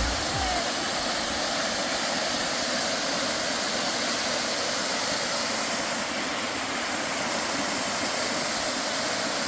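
Steady rush of falling water from the Brown Mountain Dam waterfall, an even hiss that holds at one level throughout.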